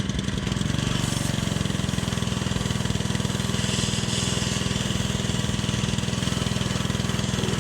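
Ryobi 3100 psi gas pressure washer's engine running steadily during wet sandblasting, with a steady hiss from the water-and-sand spray over it.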